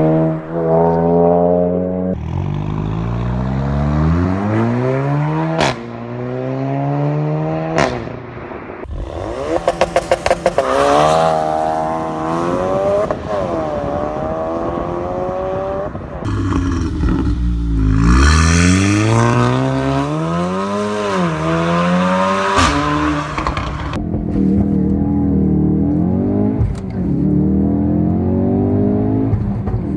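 Turbocharged four-cylinder hot hatch accelerating hard through the gears. Engine pitch climbs and then drops sharply at each upshift, a few times in the first eight seconds. About nine seconds in comes a rapid burst of exhaust crackles, followed later by more rising and falling revs.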